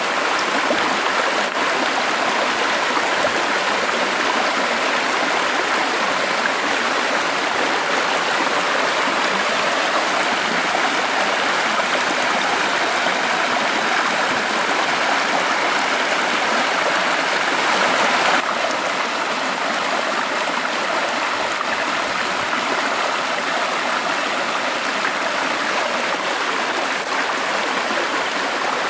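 Flowing water rushing steadily, a little quieter from about two-thirds of the way in.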